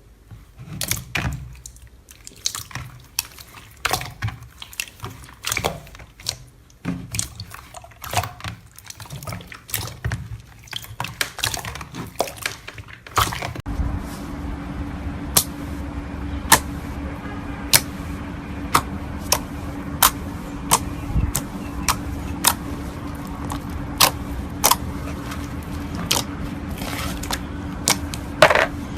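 Slime being handled: sharp, sticky, wet clicks and pops as it is poked and squeezed, irregular at first. About halfway a steady low hum comes in, and the clicks turn regular, roughly one a second.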